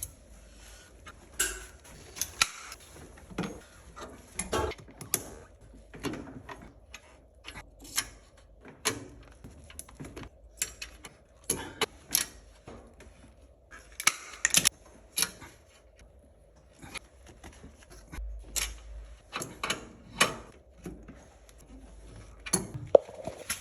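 Irregular sharp metallic clicks and clanks, a few a second, from hand tools and fittings being handled while a stainless-steel heating manifold is fitted.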